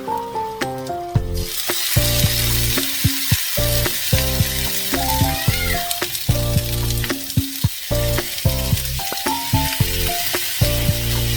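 Marinated chicken sizzling and frying on a hot tawa griddle, the sizzle starting suddenly about a second in and going on steadily, over soft background music.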